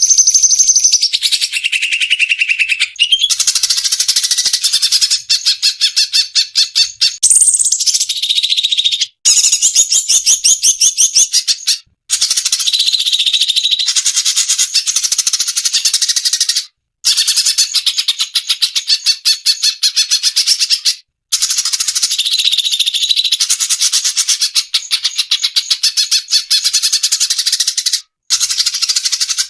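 Recorded cucak cungkok bird song played as a tutor track for songbirds: a fast, unbroken stream of high-pitched chattering and trilling notes. Brief silent pauses break it every three to five seconds.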